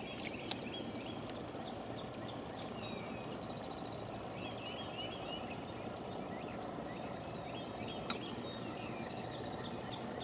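Birds calling in short repeated chirps over a steady outdoor background hiss, with two brief clicks, one early and one near the end.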